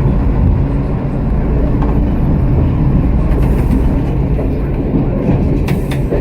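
BR Class 121 diesel railcar's engines running steadily, heard from inside the driving cab as a continuous low drone. A couple of sharp clicks come just before the end.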